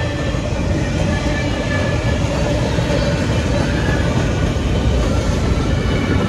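Freight train cars, boxcars, covered hoppers and tank cars, rolling past close by: a loud, steady rumble of steel wheels on the rails.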